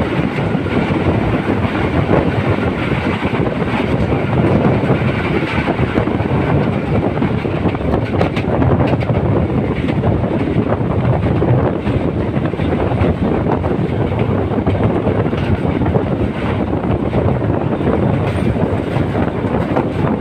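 Train running along the track: a loud, steady rumble and rattle of wheels on rails.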